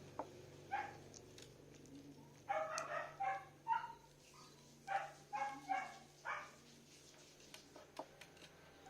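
Dog barking in two quick runs of several short barks, the first about two and a half seconds in and the second about five seconds in, over a steady low hum.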